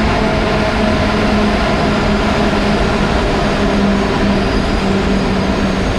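Train running at the platform: a loud, steady rumble of wheels and rails with a steady low hum under it.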